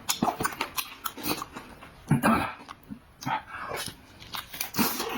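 A person chewing food noisily with wet mouth clicks and smacks, plus a couple of louder slurping or gulping bursts about two seconds in and near the end.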